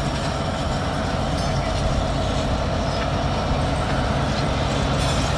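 CPKC freight train rolling through track switches: a steady rumble and rail noise, with a faint high wheel squeal near the end.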